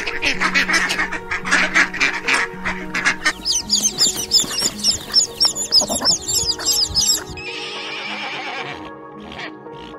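A duck quacking in a rapid series, then many chicks peeping in high, short calls, then a horse whinnying near the end. Background music plays underneath.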